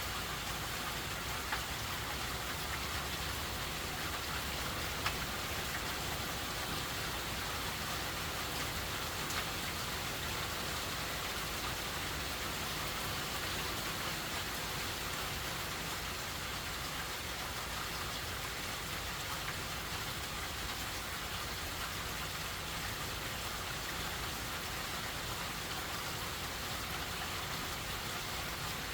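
Steady rain falling, with a few brief, louder taps of single drops, the first about a second and a half in.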